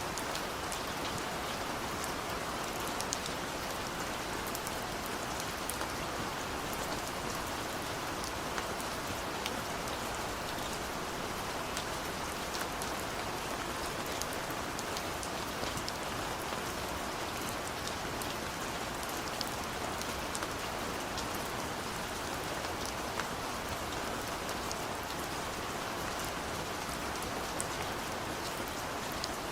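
Steady rain falling, an even hiss with scattered small drop ticks on surfaces.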